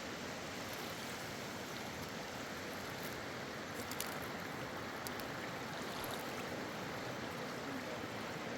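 Steady rushing noise of flowing water, with a few faint clicks about halfway through.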